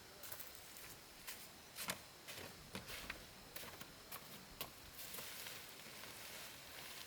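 Scattered faint clicks and taps at an irregular pace, a little stronger about two seconds in, over a quiet background hiss.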